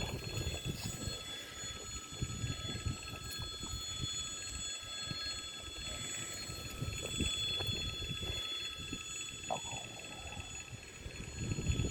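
Wind buffeting the microphone outdoors, a gusty low rumble, with faint steady high-pitched tones running underneath.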